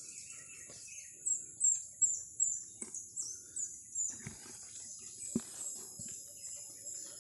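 A bird calling a long series of short, high, falling notes, about three a second, over a steady high insect drone. A few soft knocks and rustles of handling come through.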